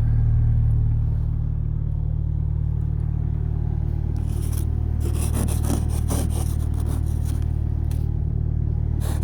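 Car engine idling steadily as it warms up after a cold start. From about four seconds in, an ice scraper rasps snow and ice off the glass in repeated strokes.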